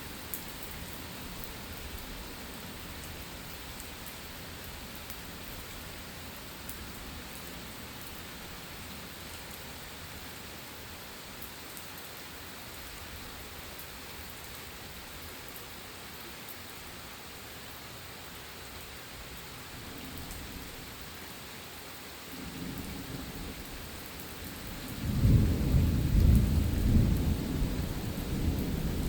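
Steady rain falling during a thunderstorm, with thunder rumbling faintly near the middle and then a loud, long roll of thunder in the last few seconds.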